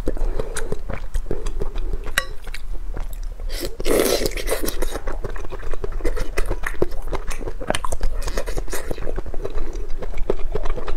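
Close-miked chewing and mouth sounds of a person eating spicy noodles: irregular wet clicks and smacks throughout, with one louder, longer sound about four seconds in.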